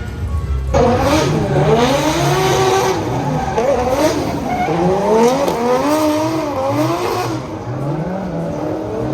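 Drift car's engine revving up and down over tyre squeal, starting suddenly less than a second in and easing off near the end.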